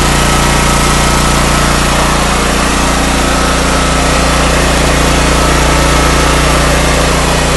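Honda EX1000 portable generator's small single-cylinder engine running at a steady speed, smooth and even: it runs like a top, with no smoke.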